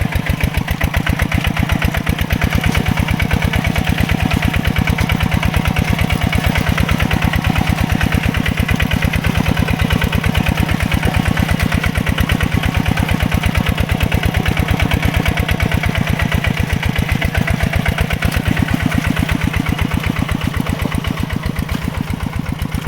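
Mini tractor's engine running steadily with an even, rapid beat, easing slightly in loudness near the end.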